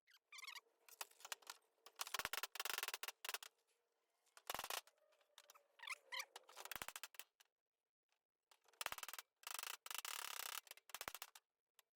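Hammer and dolly working dents out of a compact tractor's heavy-gauge steel body panel, in short bursts of quick metallic taps with brief pauses between them.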